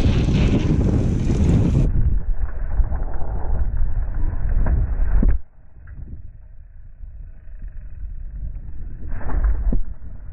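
Wind buffeting the microphone as a loud, low rumble, which drops suddenly to a quieter rumble about halfway through.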